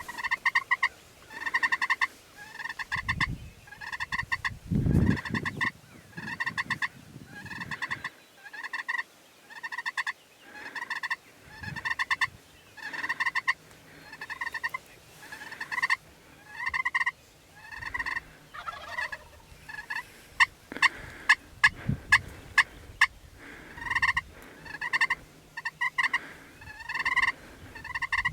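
A frog calling over and over: short pulsed trills, each rising slightly, repeated steadily about every three-quarters of a second. A couple of low thumps come a few seconds in, and a quick run of sharp clicks comes about two-thirds of the way through.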